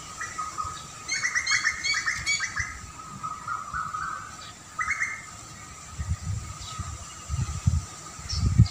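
A songbird calling in a quick run of chirps about a second in, with a shorter call around five seconds. Low rumbling thuds come in over the last few seconds.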